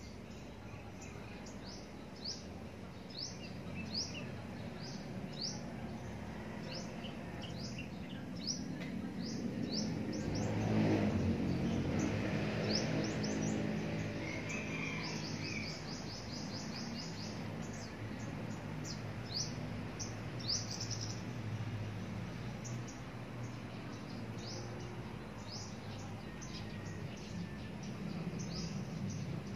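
Small birds chirping over and over in short, high, falling notes, at times in quick runs. A low rumble swells and fades about ten seconds in.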